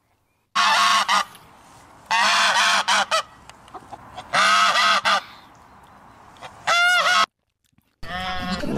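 An animal calling four times, about two seconds apart, each call loud, pitched and under a second long; the last call cuts off suddenly about seven seconds in.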